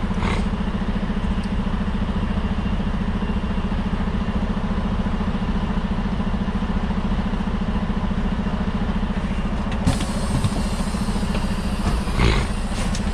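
Semi truck's diesel engine running steadily with an even low drone. A single sharp click comes about ten seconds in.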